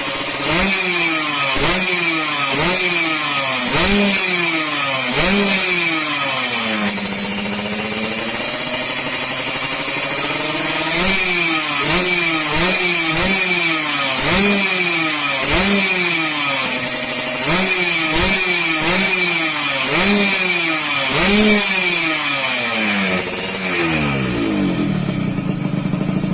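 Yamaha RX King's 135 cc two-stroke single-cylinder engine being revved through its exhaust in quick repeated blips, about one a second. It drops back toward idle for a few seconds around seven seconds in, then blips again and settles near the end.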